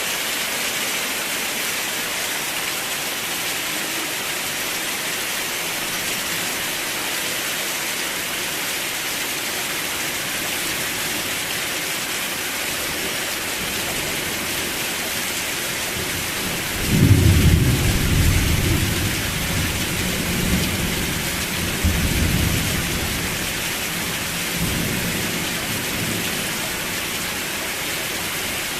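Steady heavy rain hissing. About seventeen seconds in a roll of thunder rumbles in suddenly, swells again a few seconds later and fades out.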